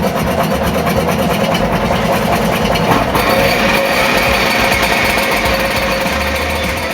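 Small engine running steadily with a rapid, even firing beat; a bit over three seconds in, a higher whine comes up over it.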